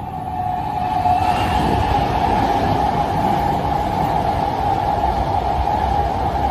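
Hankyu 1000 series electric train running through the station at speed without stopping: wheels rumbling on the rails under a steady whine. It grows louder over the first second as the train arrives, then holds steady as the cars go by.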